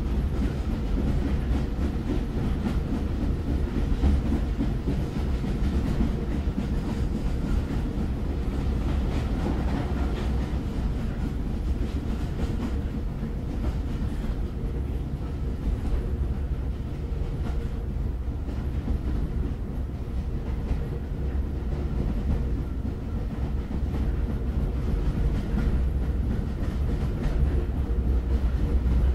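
Moving train rumbling steadily, a low rumble of wheels running on the rails that holds even throughout.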